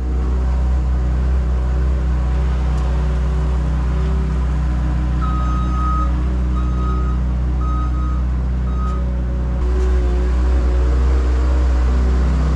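Engine of a heavy earthmoving machine running steadily, with its reversing alarm beeping several times in the middle. The engine grows louder near the end.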